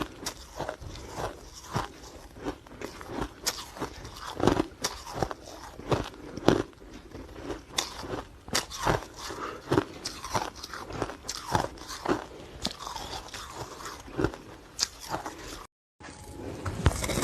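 Close-up crunching of ice being bitten and chewed: a quick irregular series of sharp, brittle cracks. Near the end there is a brief gap, after which the crunching is louder and denser.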